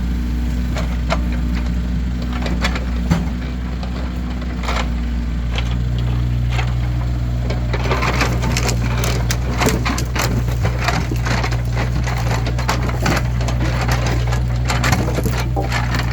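Split firewood logs knocking and clattering against one another as they are loaded and stacked, scattered at first and turning into a dense run of knocks about halfway through, over a steady low engine hum.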